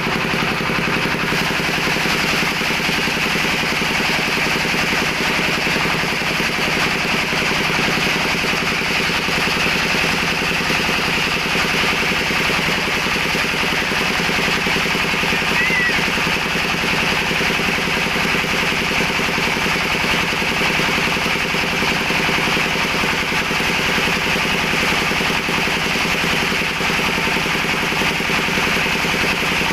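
A steady mechanical running sound with a fast, even rattle and a low hum, holding unchanged throughout.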